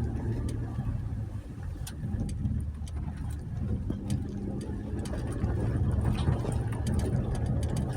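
2020 Jeep Gladiator's 3.6-litre V6 engine running at low speed over a rough dirt trail, with scattered sharp clicks and knocks. The engine gets louder about five and a half seconds in.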